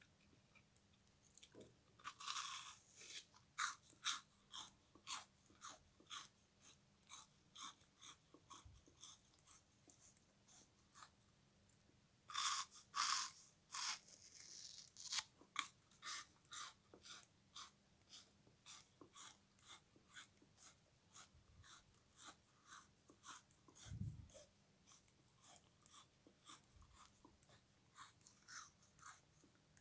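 Close, crisp crunching and chewing of a frozen sponge soaked in lemon-kiwi syrup. Louder bites come about two seconds in and again around twelve to fourteen seconds in, with steady chewing crunches a couple of times a second in between.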